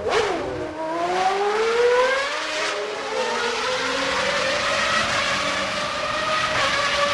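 A vehicle's engine accelerating: its pitch climbs over the first two seconds or so, then holds fairly steady.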